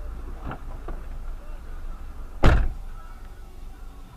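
A single heavy thump about two and a half seconds in, over a steady low vehicle rumble.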